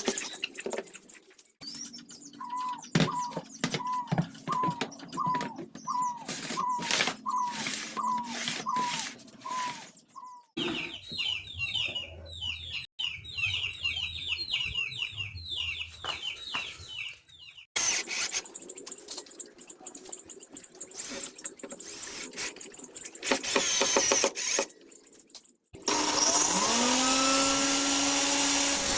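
A series of short workshop sounds from tools working plywood, with repeated short squeaks and clicks in even rhythms. Near the end a power tool motor spins up and runs steadily.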